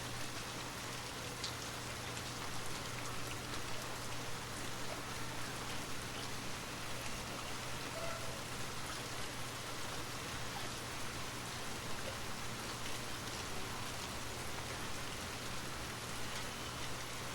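Steady rain falling, an even hiss with small scattered drop ticks and a steady low hum underneath.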